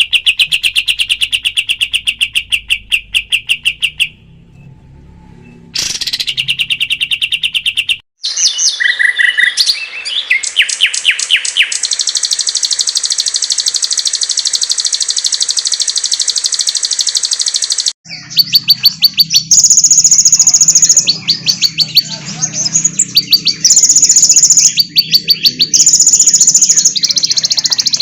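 Recorded songbird calls spliced together for masteran bird-song training: runs of fast repeated high chirps, then rapid trills and a long steady high buzzing trill, then loud repeated chirps with shrill high phrases. The recordings change abruptly several times, with a short quiet gap about four seconds in.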